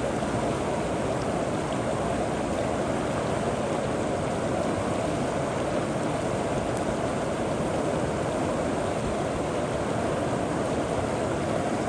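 River water flowing over rocks, a steady rushing sound with no breaks.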